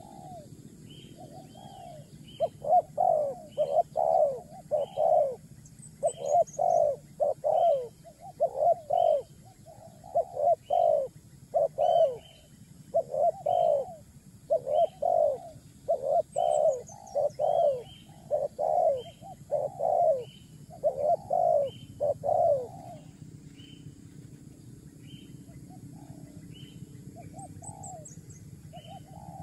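A bird's low, cooing call repeated about twice a second in a long steady series, loud for some twenty seconds and then fainter toward the end, with a fainter high chirp repeating alongside and a few brief high descending notes from another bird.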